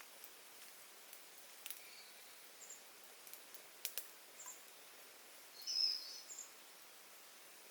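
Faint forest ambience with a few short, high bird chirps; the loudest is about six seconds in. A couple of sharp small clicks are also heard.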